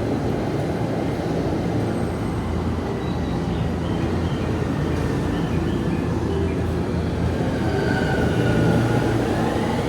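Electric commuter train running at a station platform: a steady low rumble, with a motor whine that begins rising in pitch near the end.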